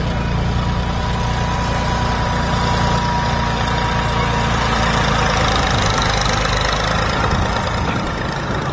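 Tractor engine idling steadily, its low engine note shifting and growing uneven about two-thirds of the way in. A thin steady whine sits above it and fades out around the middle.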